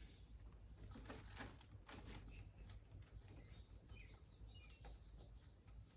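Near silence: a few faint clicks and knocks, with some faint bird chirps about four to five seconds in.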